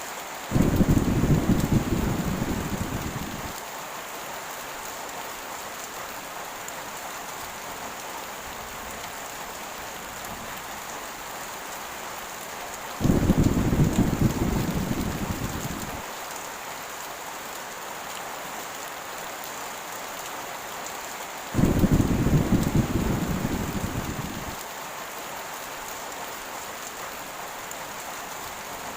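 Heavy rain falling steadily, with three low rolls of thunder: one right at the start, one about halfway through, and one about two-thirds through. Each starts suddenly and fades over about three seconds.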